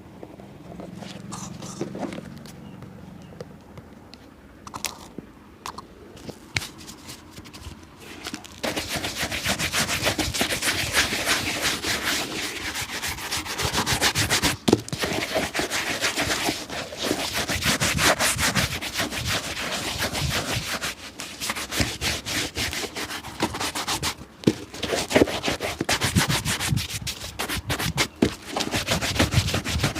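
A shoe being rubbed briskly by hand in fast, even strokes, a dense scratchy rubbing that starts about eight seconds in after some quieter handling clicks.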